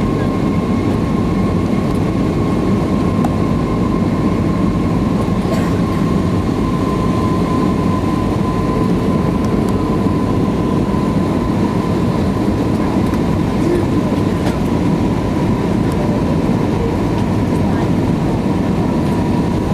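Airliner cabin noise inside an Airbus A319 on approach: a steady rush of engine and airflow noise with a constant engine whine over it.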